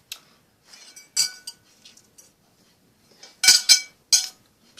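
Metal cutlery clinking and scraping on a plate: several short sharp clinks with brief ringing, the loudest cluster about three and a half seconds in.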